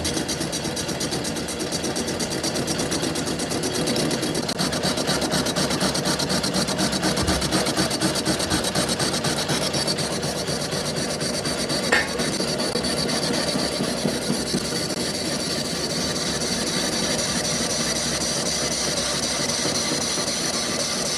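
Metalworking machinery at work on steel gear parts: a continuous rasping, grinding-like noise with a fast, even ripple, and one sharp knock about twelve seconds in.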